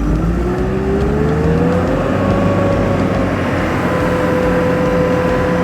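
Car engine and drivetrain pulling away, a whine rising in pitch over the first couple of seconds and then holding steady, over low road rumble.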